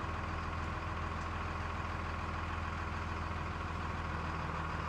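Plow truck engine idling steadily, with a steady high-pitched whine over the low hum.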